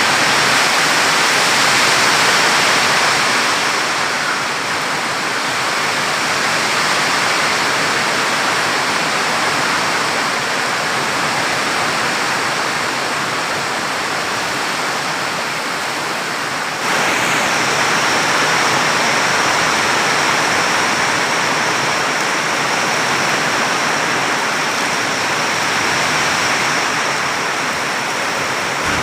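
Strong wind with heavy rain: a steady, dense hiss that shifts slightly about two-thirds of the way through.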